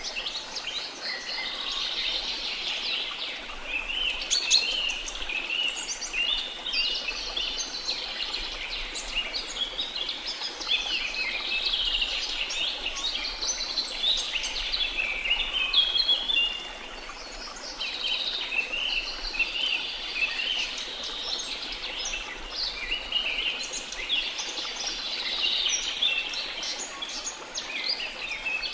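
A dense chorus of many birds chirping and trilling at once, with a short lull just over halfway, over a faint steady hiss of falling water.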